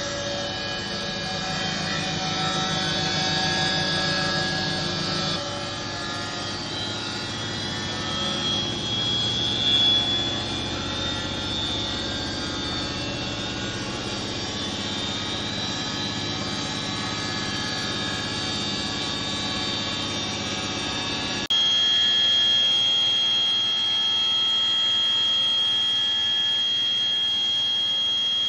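Samsung WF80F5E0W2W washing machine's failing motor whining, several steady tones at once with slight shifts in pitch: the sound of a dead motor. About three quarters of the way through, the sound changes suddenly to a single steady high-pitched whine.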